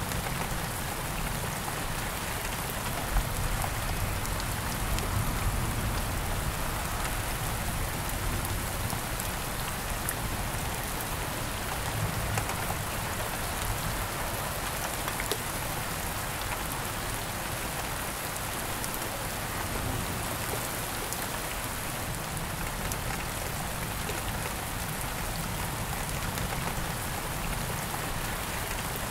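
Steady rain falling: a continuous hiss flecked with scattered sharp drop ticks, over a low rumble.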